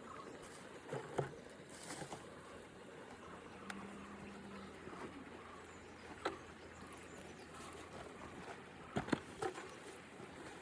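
Litter being picked up and handled: scattered light knocks and crinkles, a few close together about a second in and again near the end, over a faint steady background.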